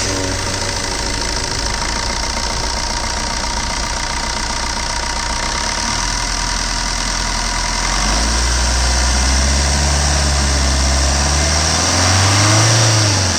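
Maruti Suzuki Swift VDI's 1.3-litre four-cylinder diesel engine idling, its speed stepping up about eight seconds in, then revved briefly up and back down near the end.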